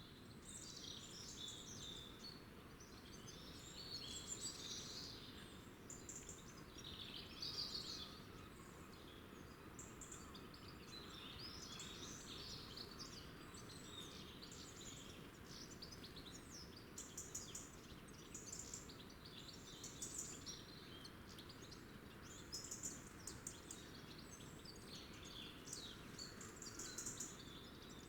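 Small songbirds chirping and twittering in many quick, short calls, over steady faint background noise.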